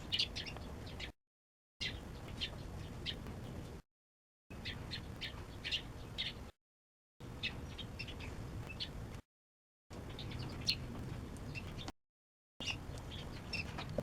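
Small birds chirping repeatedly over a low background rumble, heard in snatches of about two seconds with short gaps of dead silence between them.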